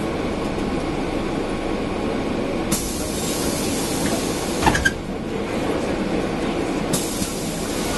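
Mercedes-Benz O405N city bus heard from inside while under way: its diesel engine and air conditioning running steadily. A hiss comes in about three seconds in, lasts about two seconds and ends with a couple of clicks, then starts again near the end.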